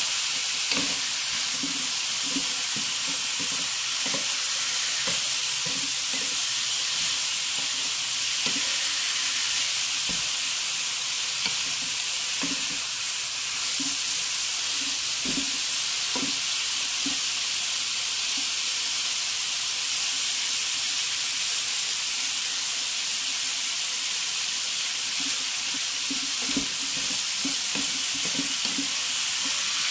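Masala mango pickle sizzling steadily as it cooks, stirred with a spoon that knocks and scrapes against the pan at irregular intervals.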